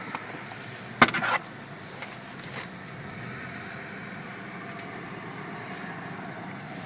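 Steady hum of a car creeping forward at the entrance of a tunnel car wash, with one loud, sudden burst of noise about a second in lasting about half a second, and a smaller one a second and a half later.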